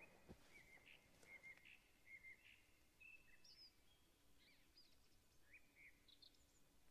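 Near silence in a forest, with faint bird calls: short high chirps and whistled notes scattered throughout. There is a soft knock just after the start and a faint steady low hum from about halfway through.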